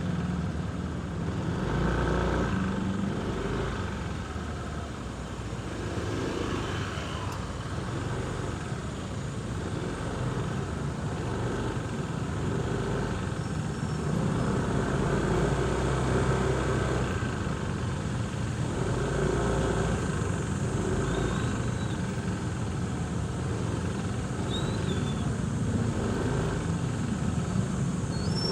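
Motorcycle engine running at low speed amid heavy road traffic, its note rising and falling a little with the throttle, over the steady noise of surrounding cars and motorcycles.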